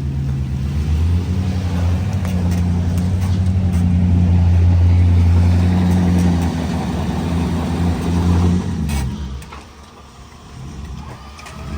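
Jeep engine running under load as it tows a dead truck up onto a trailer, building up about a second in, holding, then easing off near the end.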